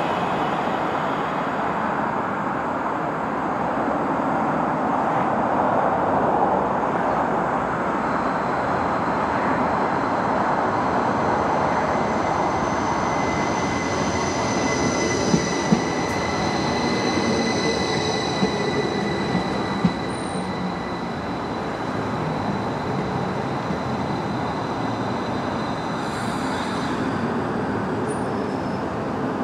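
Class 333 electric multiple unit running slowly alongside the platform: a steady rumble of wheels on rail, with a high-pitched whine that builds through the middle and fades out near the end. A few sharp clicks sound in the middle.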